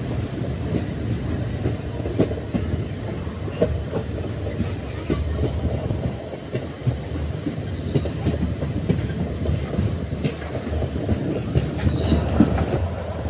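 Passenger train of ICF coaches running along the track, heard from an open coach doorway: a steady rumble of wheels on rail with repeated clacks as the wheels cross rail joints.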